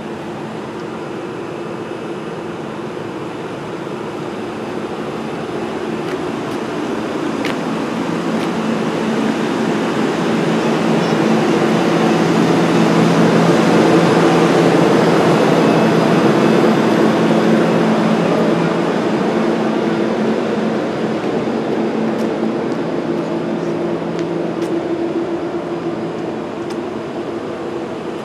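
A train passing by: a rushing running noise with a steady low hum of several tones swells to its loudest about halfway through and then fades away.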